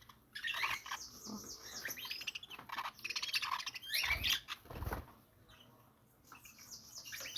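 Budgerigars chirping and chattering in quick, busy bursts, going quieter for a couple of seconds before a few more chirps near the end. Two low thumps come about four and five seconds in.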